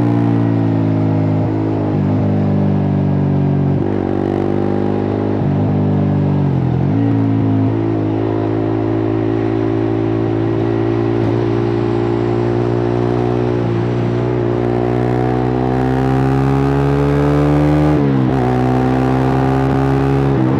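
Suzuki GSX-R150's single-cylinder engine running through a cut-open exhaust while the bike is ridden. The revs climb and drop sharply several times in the first seven seconds, climb slowly and steadily through the middle, then drop sharply again near the end.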